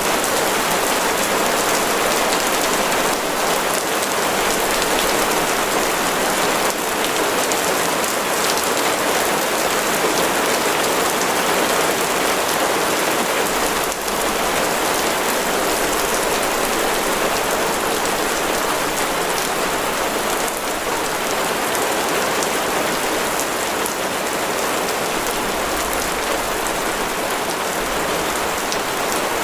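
Heavy, steady rain falling, a dense even hiss of drops with faint scattered ticks and no change in strength.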